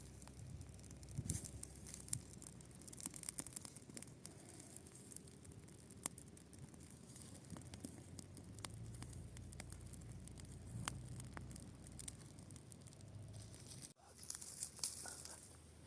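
Dry grass crackling and rustling: a dense, irregular patter of small sharp crackles, broken by a sudden cut about fourteen seconds in.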